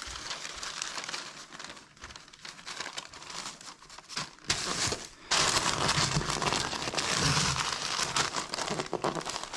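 Crinkling and rustling of sheet material being handled, growing louder and denser about halfway through.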